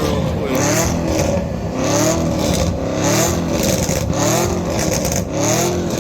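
A car engine revved over and over, its pitch climbing and dropping about once a second.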